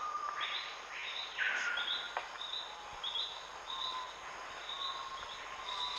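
Rainforest ambience: a repeated buzzy call that sweeps down in pitch every second or so, with short high notes and faint whistles from birds and insects.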